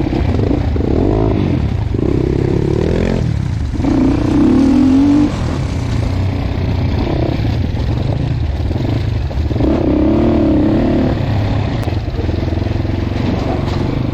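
Dirt bike engine under way, its revs rising and falling again and again, loudest about four to five seconds in.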